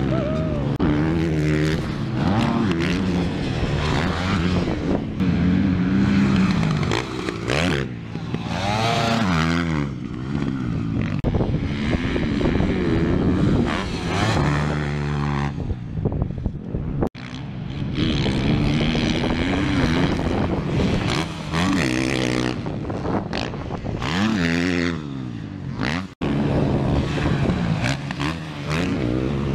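Dirt bike engine revving up and down over and over as it is ridden hard around a motocross track, with wind rush. The sound drops out for an instant twice, in the middle and near the end.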